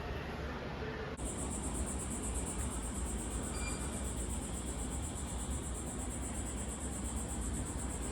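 Steady low rumble of traffic or a vehicle. About a second in, a high, steady insect drone such as cicadas starts abruptly and holds.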